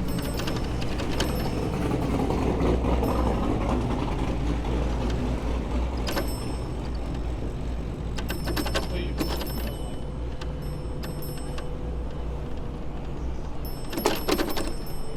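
City street noise heard from a moving bicycle: a steady low rumble of traffic and wind, broken by a few sharp clacks and rattles, the loudest cluster near the end.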